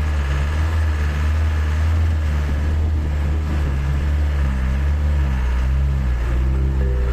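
Isuzu Elf truck's diesel engine running, a steady low drone.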